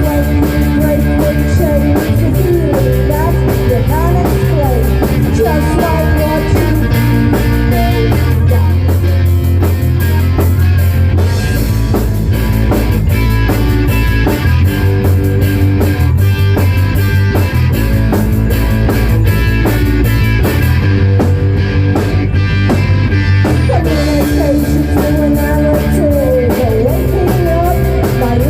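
Rock song with electric guitar, bass and drum kit keeping a steady beat, and a sung vocal line over it.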